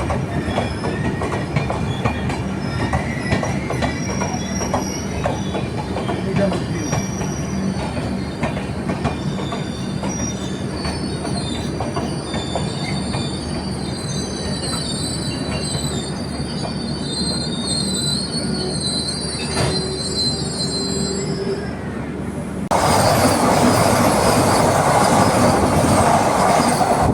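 Train rolling along the track with its wheels squealing against the rails and clicking over rail joints. About 23 s in, a much louder rushing noise starts suddenly.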